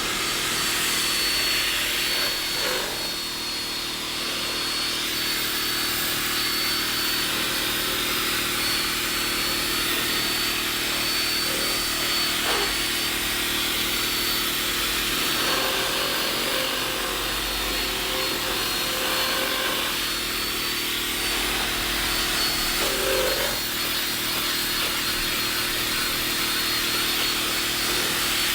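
A power tool's motor running steadily with a thin high whine, used in scrubbing or cleaning the car's carpet and upholstery.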